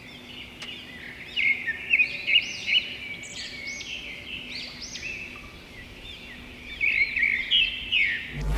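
Birds chirping and calling in quick runs of short notes, many of them rising then falling. The calls come thickest a couple of seconds in and again near the end, over a faint steady hum.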